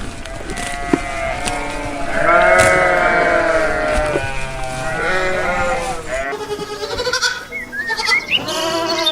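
A herd of goats or sheep bleating: many overlapping bleats at first, then after a cut about six seconds in, separate bleats one after another.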